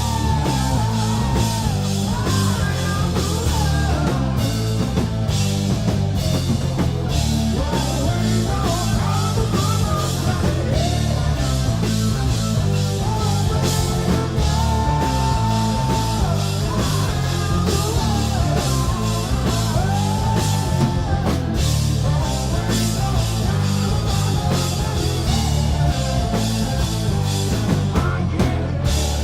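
Live rock band playing loud, heavy rock: drum kit, bass and guitars keeping a steady beat, with a singer's voice carrying the melody and holding a long note in the middle.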